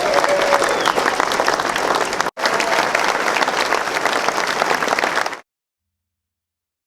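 Crowd applauding, a dense patter of many hands clapping, with a brief gap about two seconds in; it cuts off suddenly near the end.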